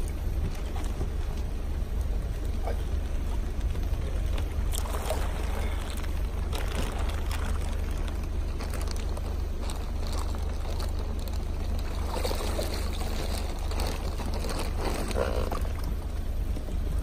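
Water splashing and sloshing in a koi pond during harvest netting, swelling about five seconds in and again near the end, over a steady low rumble.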